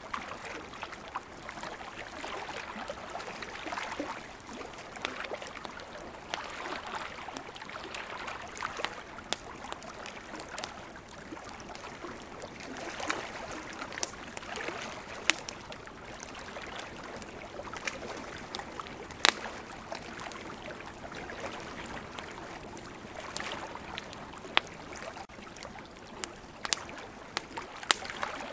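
Wood campfire crackling, with sharp pops every few seconds, over a steady wash of ocean waves that swells and eases.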